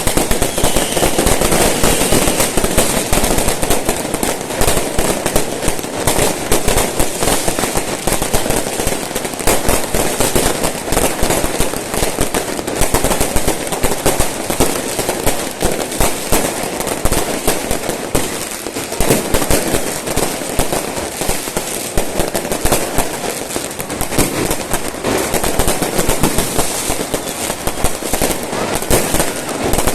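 Fireworks going off in a dense, continuous barrage of overlapping bangs and crackles with no pause.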